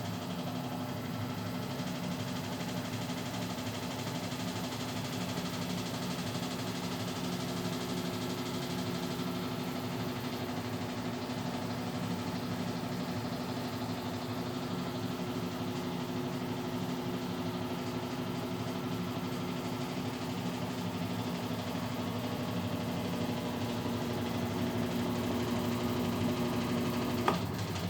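Brastemp Clean washing machine's motor and drive running steadily with a constant hum, fitted with new bearings, seal and mechanism. A click near the end, as the hum stops.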